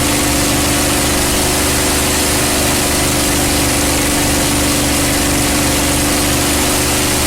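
North American P-51 Mustang's Rolls-Royce Merlin V-12 engine running steadily in flight, heard from the cockpit as an even, unchanging drone with a constant hum and a hiss of engine and wind noise.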